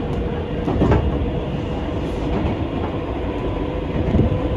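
Nankai Koya Line train running, heard from inside the car: a steady rumble of wheels on rails with a thin constant hum and a few clunks from the track, one about a second in and another near the end.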